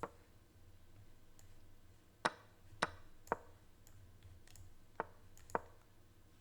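Move sounds of an online chess game as the opening moves are played quickly: about six short, sharp clicks, several coming about half a second apart.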